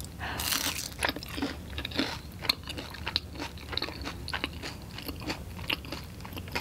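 A bite into a crisp fried hash brown about half a second in, then crunchy chewing: many short, sharp crunches one after another.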